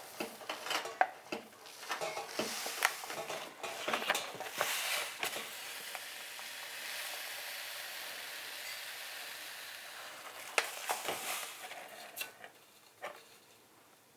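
Sugar being measured out: a spoon and measuring cup clinking and scraping, then a steady hiss of granulated sugar pouring for several seconds, then a few more clinks.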